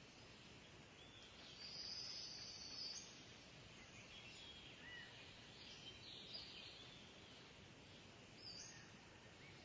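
Faint, high-pitched kingfisher calls over a steady background hiss: a longer shrill call about one and a half to three seconds in, then shorter calls scattered through the rest.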